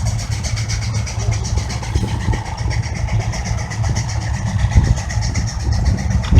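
Case steam traction engine working under load as it pulls a gang of plows, its exhaust chuffing in a steady, even beat over a heavy low rumble.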